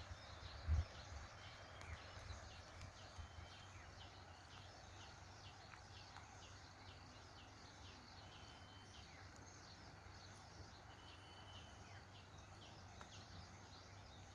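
Faint outdoor ambience: a steady run of short, high chirps, several a second, over a soft background hiss, with a soft low bump about a second in.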